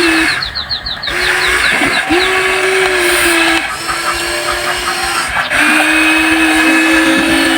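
Electric motors of a Huina 1593 RC excavator whining at a steady pitch in several stretches of one to two and a half seconds, starting and stopping as different functions are run. About half a second in comes a quick run of high clicks.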